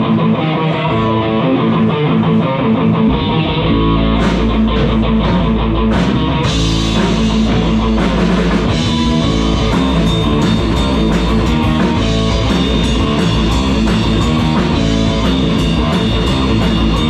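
Live rock band starting a song: a guitar plays alone, bass comes in about three seconds in, and drums with cymbals join to bring in the full band by about six seconds in.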